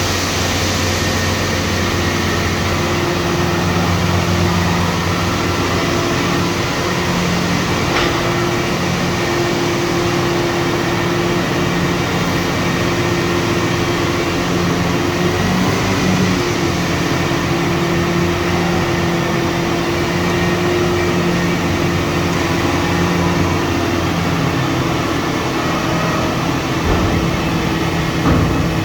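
Diesel engine of a large farm machine running steadily, a constant drone with a hum that barely changes.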